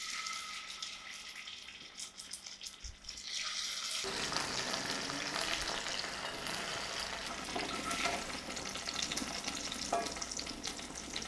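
Marinated chicken drumsticks shallow-frying in hot oil in a cast-iron pan: a steady sizzle that gets louder about four seconds in, with short clicks and scrapes as the pieces are turned.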